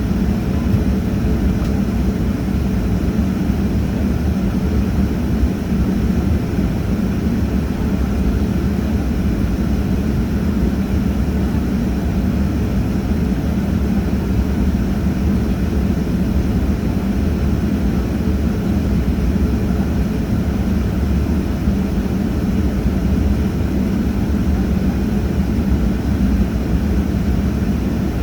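Airliner engines running steadily: a constant loud drone with a low hum that holds level throughout.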